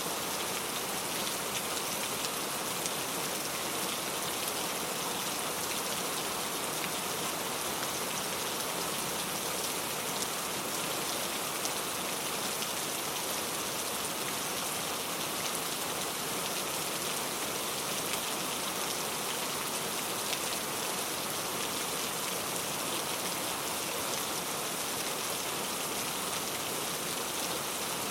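Steady heavy rain falling, a dense, even patter of drops hitting surfaces with no thunder.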